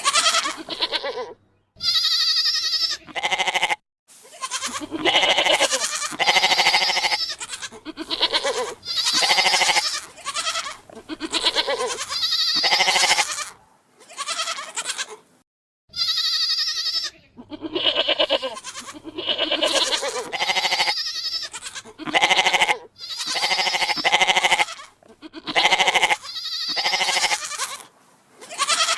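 Goats bleating again and again: a string of quavering bleats, some short and some drawn out, with brief silent breaks between them.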